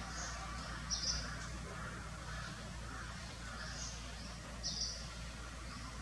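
Birds chirping: short, high chirps in two clusters, loudest about a second in and again near five seconds, over a steady low hum.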